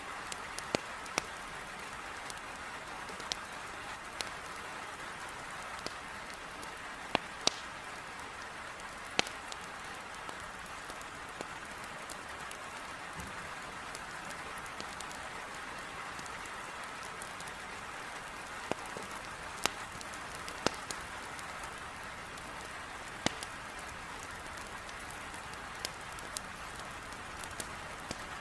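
Heavy rain beating steadily on a window, with scattered sharp pops and crackles from burning logs in a fireplace.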